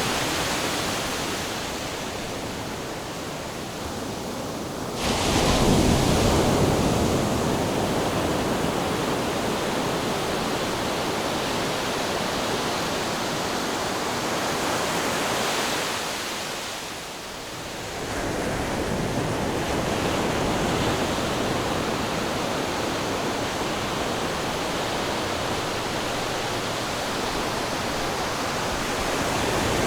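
Ocean surf: a continuous rush of breaking waves. It swells suddenly about five seconds in, then eases briefly past halfway before the rush picks up again.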